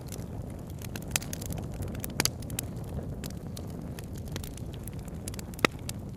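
Campfire crackling: irregular sharp pops and snaps over a steady low rushing, with the loudest pop about five and a half seconds in.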